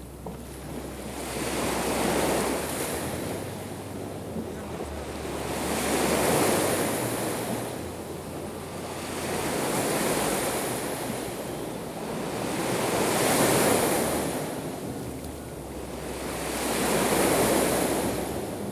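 Sea waves breaking and washing up the shore, five swells coming and going about every three to four seconds.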